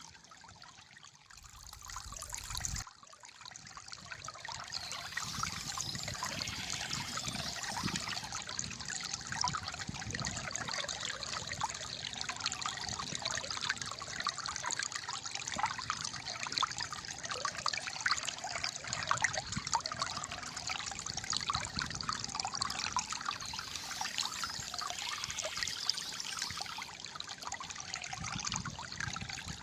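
Calm flowing water trickling and gurgling in a steady stream of small splashes. It is quieter for the first few seconds, then holds at an even level.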